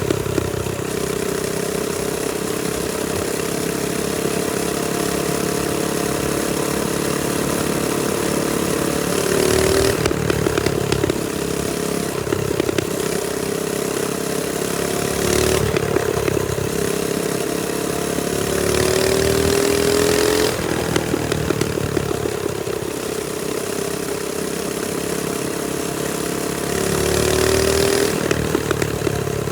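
Trailmaster Storm 200 minibike's small single-cylinder four-stroke engine running while riding, its engine speed rising and falling several times. It gets louder in surges about ten, twenty and twenty-eight seconds in, with a clear rising rev just before the middle surge.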